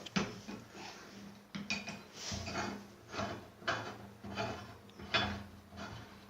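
Repeated irregular metallic clinks and scrapes from a homemade table-fan shaft press being handled and adjusted, metal parts knocking and rubbing together.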